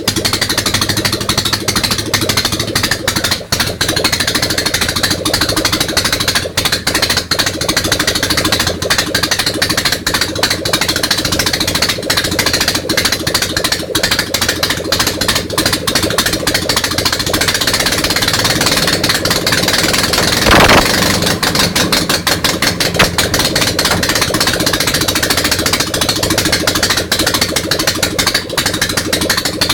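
Ural motorcycle boxer-twin engine running after a major overhaul, with a fast, even stream of firing pulses, fed by only one of its carburettors. There is a brief louder burst about twenty seconds in.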